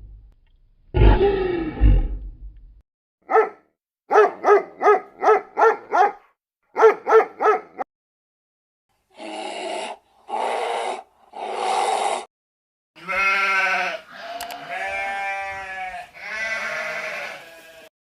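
A run of different animal calls one after another. A low rough call about a second in, then two runs of quick, evenly repeated short calls, three short even calls, and longer wavering calls near the end.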